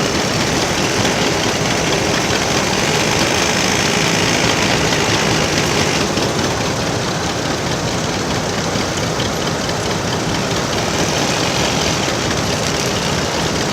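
Tractor engine running steadily at low speed, heard from the driver's seat.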